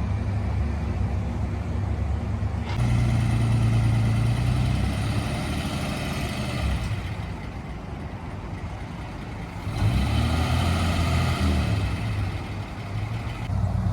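Car engines idling and running, the sound changing abruptly between engines a few times, with one engine's pitch briefly rising about ten seconds in.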